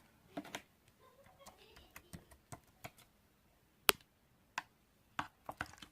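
Scattered light clicks and taps at an uneven pace, the sharpest one about four seconds in, with a faint voice in the background.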